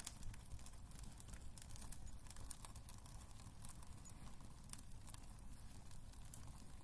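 Wood fire crackling in a fireplace: irregular small pops and snaps over a low steady rumble of the burning logs.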